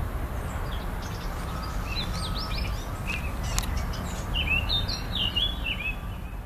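Songbirds chirping, a run of short quick chirps from about two seconds in, over a steady low rumble of wind buffeting the microphone ahead of a thunderstorm.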